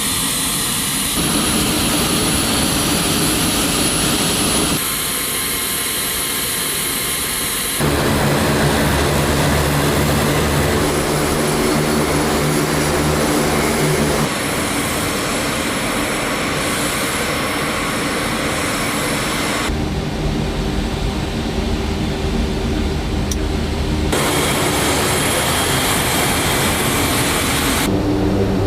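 Four-engine turboprop of a C-130J Super Hercules running steadily with a constant propeller drone. The pitch and tone change abruptly several times.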